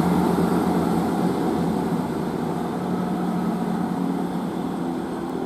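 Diesel train's engines droning as it moves away, fading steadily.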